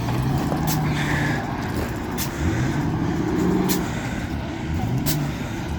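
A Ford vehicle's engine revving in surges, its pitch rising again and again, as it struggles for grip on an icy highway.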